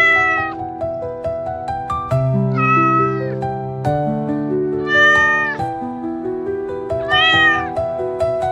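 A cat meowing four times, each meow under a second long and bending in pitch, about two and a half seconds apart, over soft background music.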